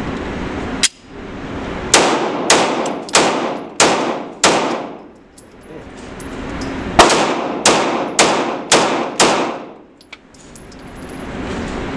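Handgun shots: a single sharp crack about a second in, then a string of five shots about 0.6 s apart, a pause of two seconds, and a second string of five at the same pace. Each shot is followed by an echoing decay.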